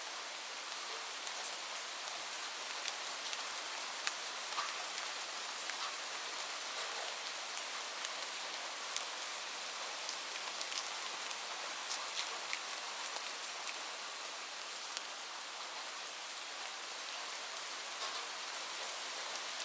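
Steady rain falling on a surface: an even hiss with many individual drops ticking sharply through it.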